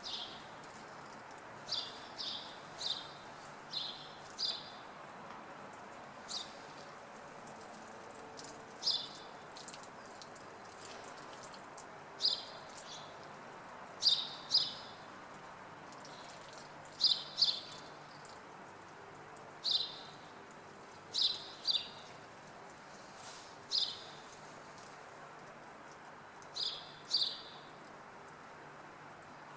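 Small birds chirping: short, sharp chirps, often in quick pairs, repeating every second or two over a steady background hum.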